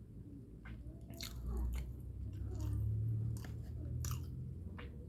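Close-up sounds of a person eating egg noodles with rice: wet chewing and mouth clicks with occasional slurping noise, a low rumble heavier in the middle.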